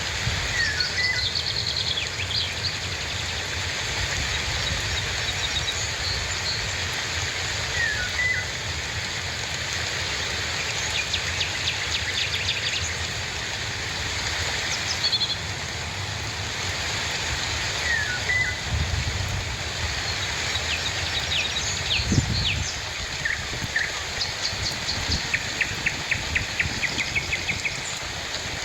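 Steady rain hiss with birds calling over it: a short chirped call repeated every several seconds and, twice, a rapid trilled run of notes. A dull thump about two-thirds of the way through.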